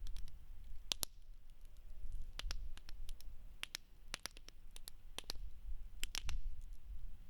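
Wood campfire burning in a fire pit: irregular sharp pops and crackles from the burning wood, a few every second or two, over a low steady rumble.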